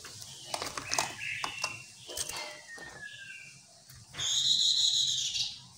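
Chestnut-capped laughingthrush calling: short chattering notes and a falling whistle, then a loud, harsh rasping call lasting about a second and a half near the end.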